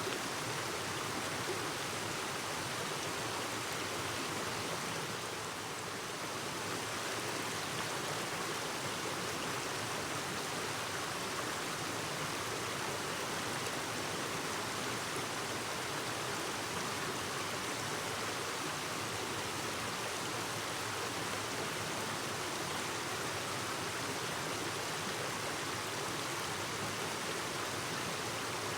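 Clear mountain stream babbling over rocks, a steady rush of flowing water.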